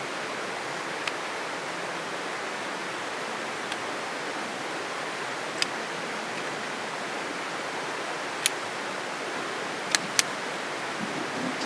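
Steady rush of flowing river water, with a handful of short sharp clicks scattered through it, two of them close together near the end.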